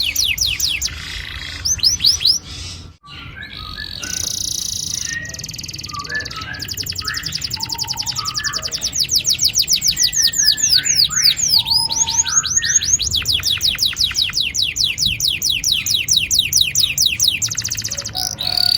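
Domestic canary singing long rolling trills: rapid runs of high, downward-swept notes repeated evenly many times a second. The song breaks off briefly about three seconds in, continues with scattered notes, then settles into one long unbroken roll through most of the second half.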